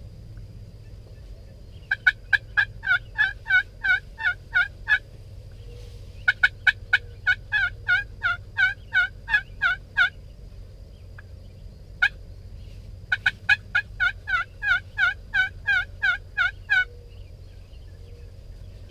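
Turkey yelping: three runs of a dozen or so evenly spaced yelps, about three a second, with a single yelp between the second and third runs. A steady low rumble runs underneath.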